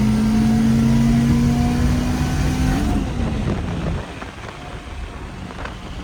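Turbocharged K20A2-swapped Honda Civic hatchback accelerating hard in gear, its four-cylinder engine note climbing steadily. About three seconds in the throttle closes and the engine falls away to a much quieter coast.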